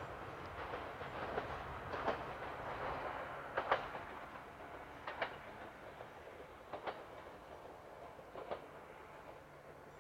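Joshin Electric Railway 1000 series electric train pulling away. Its wheels clack over the rail joints in pairs about every one and a half seconds, over a low running rumble that fades as it recedes.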